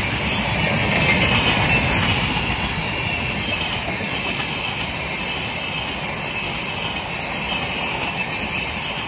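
Express train's passenger coaches rolling past at speed: a steady rush of steel wheels on the rails with a high hiss, easing off slightly after about two seconds.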